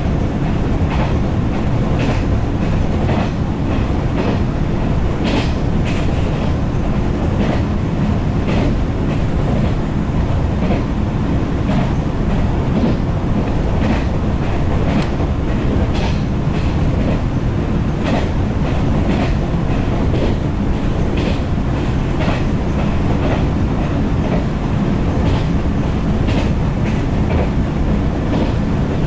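JR 113-series electric train heard from inside the carriage while running at speed: a steady low rumble of wheels on track, with frequent sharp clicks as the wheels pass over rail joints.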